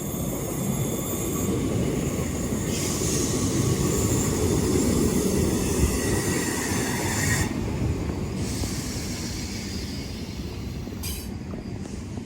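Class 319 electric multiple unit pulling into the station and slowing, its running noise swelling to a peak about five seconds in and then fading. A high squeal runs with it and cuts off about seven seconds in.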